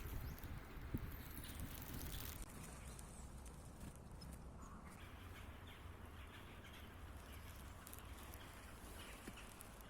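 Faint outdoor ambience: a steady low rumble, a few light taps in the first second or so, and faint bird chirps.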